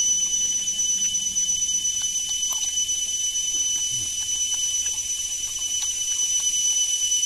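Chewing chicken gizzards with faint, scattered clicks, under a steady high-pitched whine and hiss that is the loudest thing heard.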